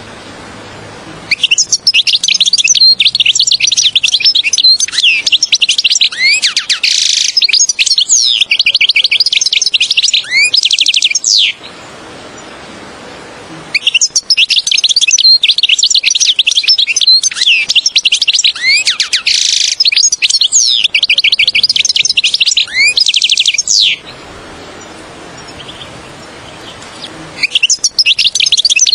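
European goldfinch singing its rapid, twittering song in two long phrases of about ten seconds each, separated by short pauses, with a third phrase starting near the end.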